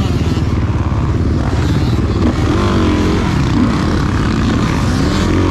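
Motocross dirt bike engine running hard, its pitch rising and falling as the throttle is worked on and off.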